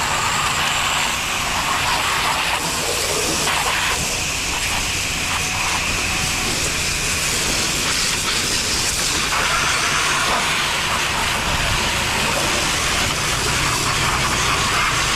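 Pressure washer running steadily: the engine-driven pump's low drone under the hiss of a high-pressure water spray.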